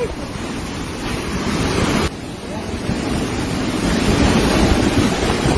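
Storm wind blowing hard and buffeting the microphone, a dense rushing noise that drops suddenly about two seconds in and then builds again.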